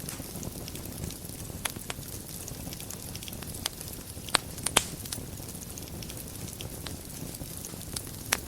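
Wood fire burning in a fireplace: a steady low rumble of flames with scattered sharp crackles and pops, the loudest a small cluster about halfway through and one more near the end.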